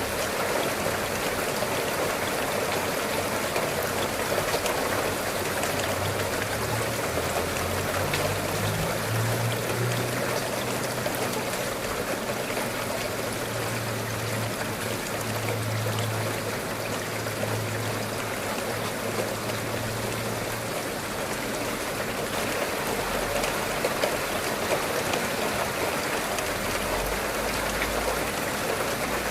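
Steady rain: an even, unbroken hiss of falling and running water. A faint low hum runs under it from about a third of the way in to past the middle.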